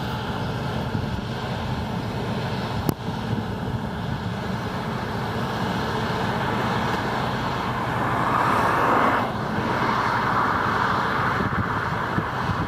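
Classic New Holland combine harvester running while harvesting wheat: a steady diesel engine hum under the rushing noise of the header and threshing, which grows louder from about eight seconds in. A single sharp click about three seconds in.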